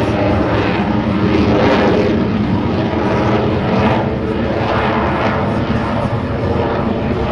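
Lockheed Martin F-22 Raptor's twin Pratt & Whitney F119 turbofans: a loud, continuous jet roar during a display pass, its tone sweeping as the aircraft moves past.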